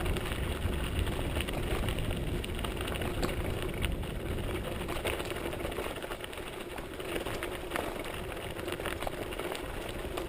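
Mountain bike rolling downhill on a rough forest dirt track: steady tyre rumble over the surface, with frequent clicks and rattles from the bike over bumps and stones.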